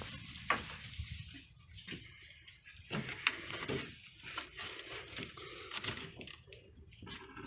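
Coolant dribbling and splashing out of the partly loosened bottom radiator hose of a Land Rover 300Tdi into a bucket, in faint, irregular drips and splashes.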